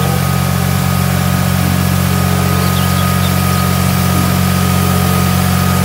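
Heavy diesel engine of an eight-wheel tipper lorry running steadily, its body raised for tipping. Birds chirp faintly about three seconds in.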